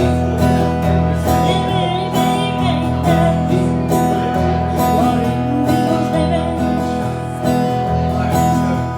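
Acoustic guitar strummed in a steady rhythm: an instrumental passage of a live song, with no singing.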